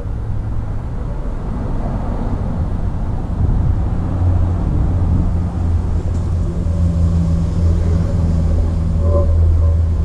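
A motor vehicle engine running steadily, a low hum that grows louder about three seconds in.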